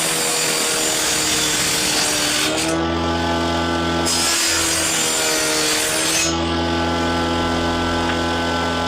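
Electric woodworking power tool running and cutting into wood twice, each pass about three seconds long. Between the passes the motor runs free with a steady hum.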